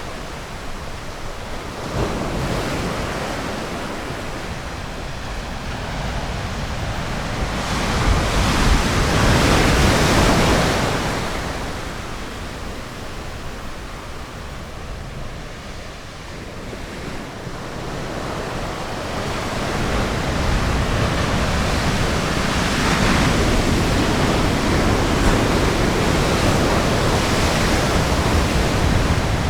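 Ocean surf breaking on a beach: a steady wash of waves that swells to a loud break about eight seconds in, ebbs, then builds again for the last third, with some wind on the microphone.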